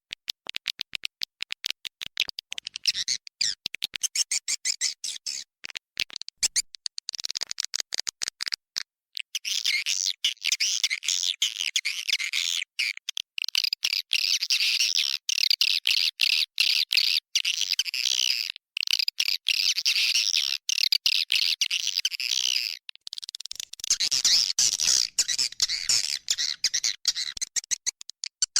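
Edible-nest swiftlet lure call: dense, high chirping and twittering of many swiftlets, chopped by frequent brief silences. This 'inap' roosting call is played in swiftlet houses to draw the birds in to roost and nest.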